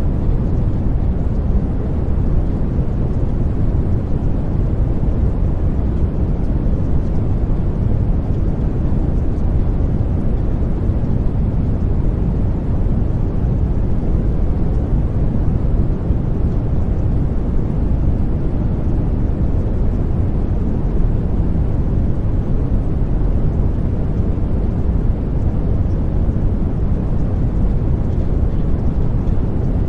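Steady low rumbling noise, even and unbroken, with no tones, voices or separate events standing out: the masking background of a subliminal affirmation track.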